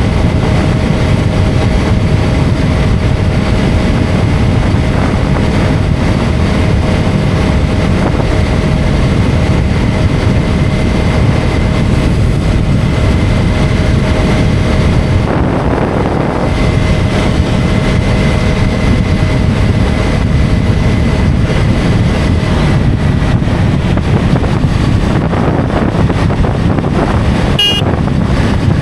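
KTM Duke 250 motorcycle engine running steadily at road speed under heavy wind rush, with a steady whine in the mix for the first half. A brief sharp sound comes near the end.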